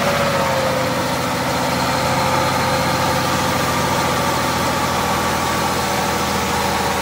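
Mazda MPV's 3.0-litre V6 idling steadily just after being started, its idle dropping slightly and settling in the first second. It runs during a catalytic converter back-pressure test, with a gauge screwed into the front oxygen-sensor port.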